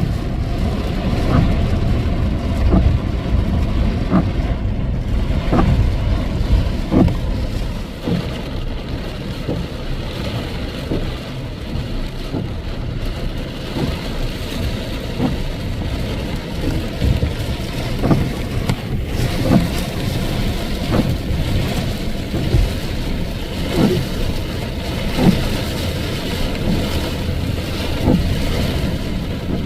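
Steady low rumble of a running vehicle with wind noise, and a soft knock recurring about every second and a half.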